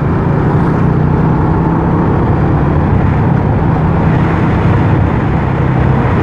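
Honda RS150R's single-cylinder four-stroke engine running at a steady cruise while riding, with wind rushing over the action camera's microphone.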